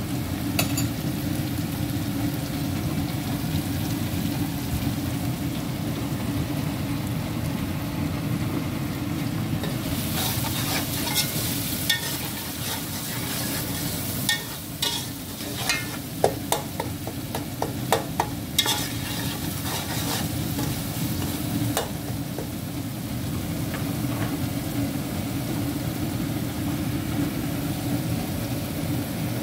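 Chilli flakes, cumin and onion frying in oil in an aluminium pot as the masala for rice, sizzling over a steady low rumble. In the middle third a metal spoon stirs them, with a brighter hiss and a run of clicks and scrapes against the pot.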